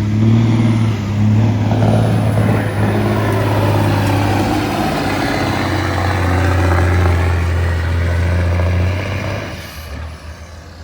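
Truck-pull competitor's pickup engine running hard under load at steady high revs, then backing off and dropping away about nine and a half seconds in.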